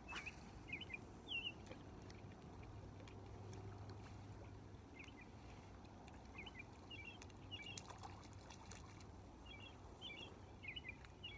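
Faint outdoor quiet: a low steady rumble with scattered short, high bird chirps.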